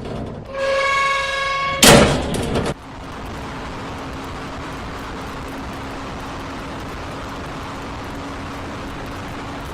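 Vehicle sounds: a steady pitched tone for over a second, then a short, loud noisy burst, then steady rushing noise with a faint low hum.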